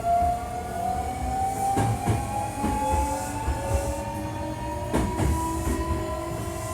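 Hankyu 1300 series electric train accelerating, heard on board. Its traction motor and inverter give a whine that climbs steadily in pitch as speed builds, over a low running rumble. A couple of sharp wheel knocks from rail joints come about two and five seconds in. This set is billed as an odd-sounding unit.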